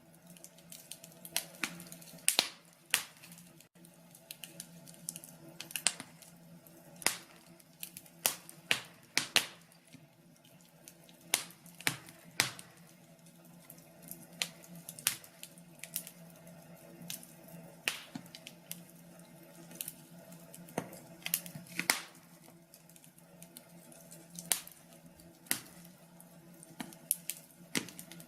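Wood fire in a fireplace crackling: irregular sharp pops and snaps, a few a second, over a faint steady hum.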